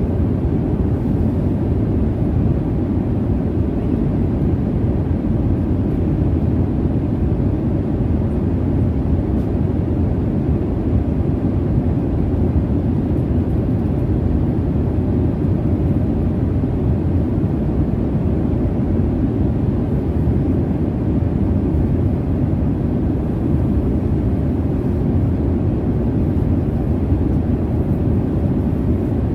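Jet airliner cabin noise in flight: a steady, low rumbling hiss of engines and airflow, unchanging throughout.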